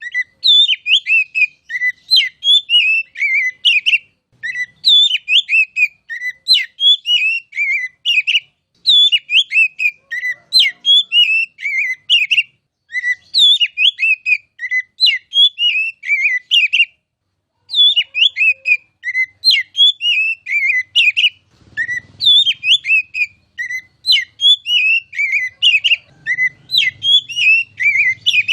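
Oriental magpie-robin singing a long, rapid run of loud, clear whistled notes, many of them falling in pitch, with a brief pause about two-thirds of the way through. A faint low hum sits under the song near the end.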